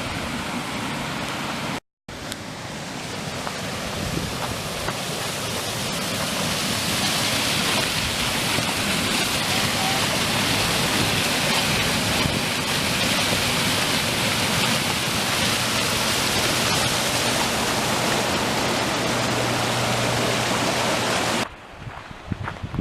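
Waterfall rushing: a steady wash of falling water that grows louder over the first several seconds, holds steady, then cuts off abruptly near the end.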